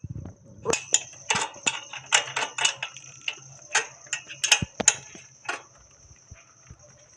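Light metal clicks and clinks from a motorcycle chain being handled and worked on, about fifteen in a few seconds at an uneven pace, stopping near the end.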